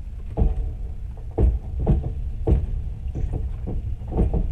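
Train carriage rumbling low and steady on the move, with irregular knocks and clanks from the wheels and car body, about half a dozen in four seconds.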